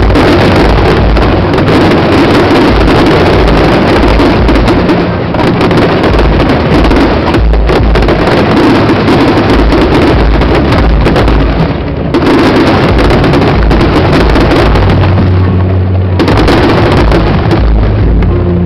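Fireworks exploding in a dense, unbroken barrage of bursts and deep booms, very loud, with a brief lull about twelve seconds in.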